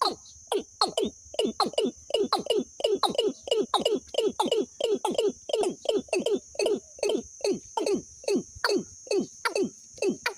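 A recorded bird call used as a trapping lure: short calls, each sliding steeply down in pitch, repeated rapidly about three times a second, over a steady high hiss.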